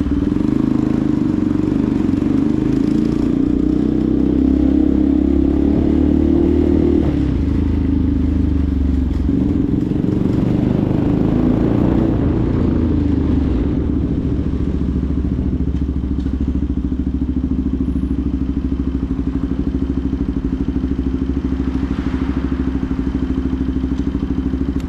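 Benelli TNT 125's single-cylinder four-stroke engine running, its note shifting with the throttle over the first dozen seconds, then holding steadier and lower. The sound cuts off sharply at the very end.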